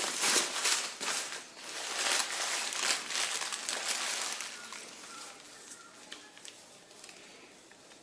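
Packaging crinkling and rustling as it is handled, dense and crackly for the first half, then dying down to a few faint clicks.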